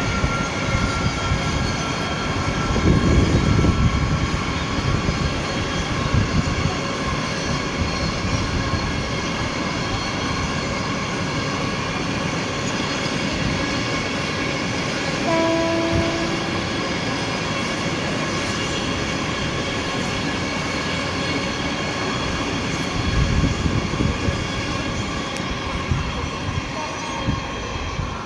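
Freight train running on the rail: a WAG7 electric locomotive hauling BTPG tank wagons, with a steady rumble of wheels on track and thin high squealing tones. A short horn toot sounds about halfway through.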